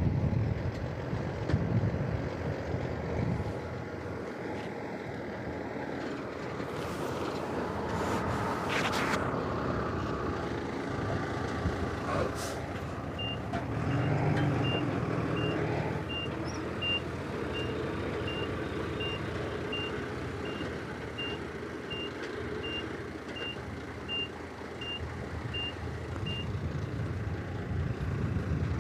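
Heavy diesel earthmoving machinery running at a construction site, with a reversing alarm beeping steadily, about three beeps every two seconds, from about halfway through for some thirteen seconds. A short hiss of air comes about a quarter of the way in.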